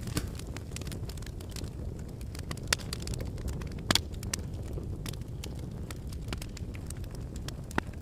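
Wood fire burning in a fireplace: a steady low rumble of flame with irregular sharp crackles and pops from the logs, a few louder pops among them.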